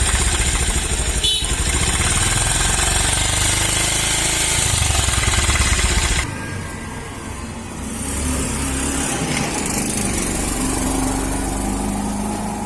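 Bajaj Pulsar single-cylinder engine running with a loud clattering rattle, the timing-chain noise of a slack chain whose tensioner has worked loose. About six seconds in the sound drops to a quieter, steadier run.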